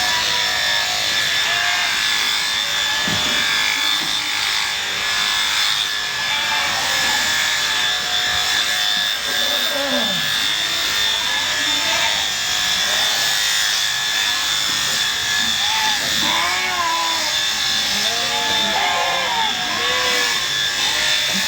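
Electric sheep-shearing handpiece running steadily, a constant buzz with a high whine as it cuts through the fleece. Short arching calls, voices or animal, come and go over it, most thickly in the second half.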